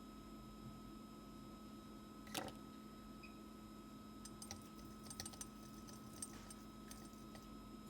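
Faint steady electrical hum with a single sharp click about two seconds in, then a scatter of small light ticks: small tools being handled on a microsoldering bench during CPU reballing.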